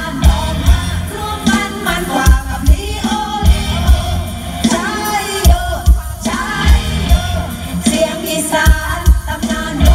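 Live Isan band music played loud through a PA system, with singing over a steady, heavy kick-drum beat.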